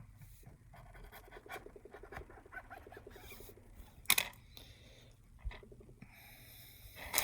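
Small clicks, scratches and taps of hands and tools handling a smartphone and its parts on a work desk, with a sharper knock about four seconds in and another near the end.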